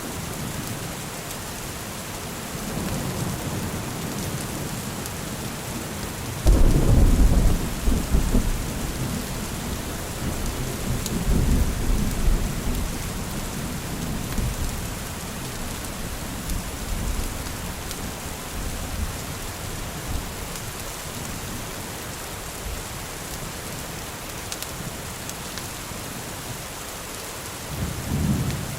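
Steady rain with thunder: about a quarter of the way in a sudden loud clap breaks into a deep rumble that rolls on for several seconds, and a softer rumble swells near the end.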